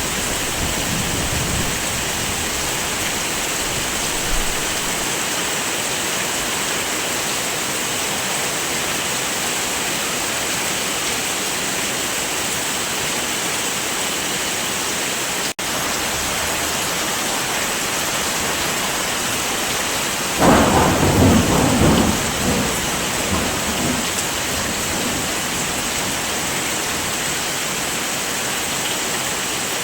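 Steady heavy rain with a roll of thunder rumbling in about two-thirds of the way through, with fainter rumble dying away at the start. The rain drops out for an instant near the middle.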